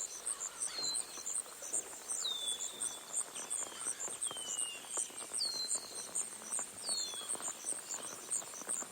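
Insects chirping in a steady, even pulse of about three chirps a second, with a bird giving about six short, falling whistle calls every second or so.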